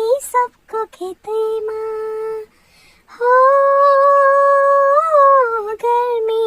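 A single high-pitched voice singing a tune without clear words. First come short clipped notes, then one long held note of about two and a half seconds that ends in a falling phrase.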